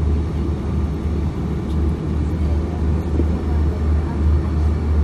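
Steady low rumble of cabin noise inside an Airbus A340-600 on the ground, its engines idling.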